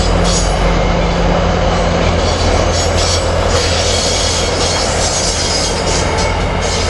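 Virginia Railway Express bilevel commuter cars rolling over a railway bridge, with steady wheel-on-rail noise and scattered clicks from the wheels over the rail joints. The last car passes about four seconds in.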